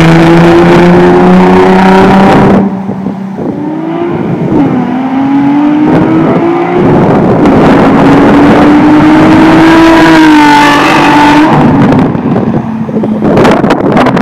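Nissan VQ35 V6 through a straight-pipe exhaust, accelerating hard past at full throttle: the pitch climbs, drops suddenly about two and a half seconds in, then climbs again in a long pull for about six seconds before falling away near the end.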